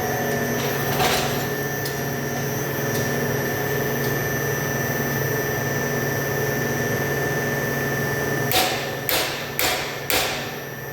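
Steady drone of running shop machinery with a low hum, then four hammer blows on steel about half a second apart near the end, with one single knock about a second in.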